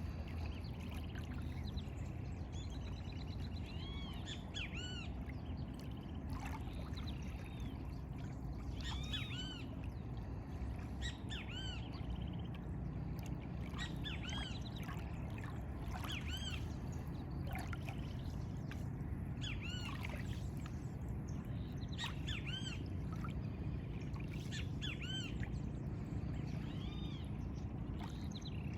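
Birds calling repeatedly in short arching chirps, a few every second or two, over a steady low background noise.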